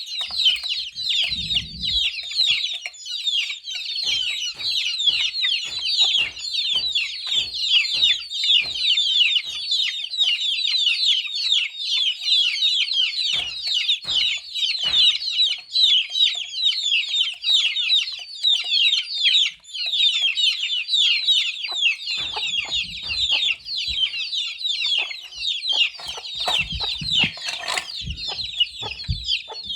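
A brood of chicks peeping continuously: many short, high, downward-sliding chirps overlapping, with scattered sharp taps and a few dull knocks.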